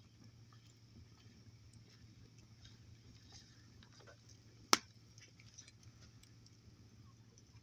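Wood campfire crackling with faint scattered ticks, and one loud sharp pop about halfway through.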